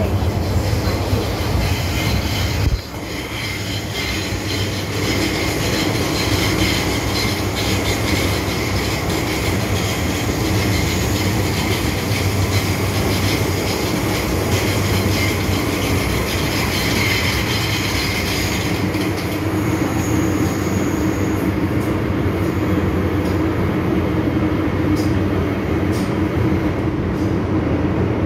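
MTR M-Train electric multiple unit running between stations, heard from inside the car: a steady hum and rumble of motors and wheels on the rails. There is a brief drop in loudness about three seconds in.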